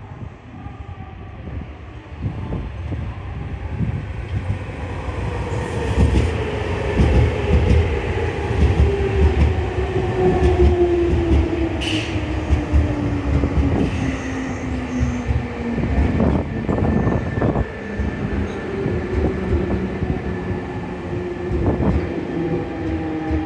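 Nankai Koya Line electric train pulling into the station, with wheels clattering and rumbling on the track. The sound grows louder over the first few seconds, and a motor whine falls slowly and steadily in pitch as the train slows.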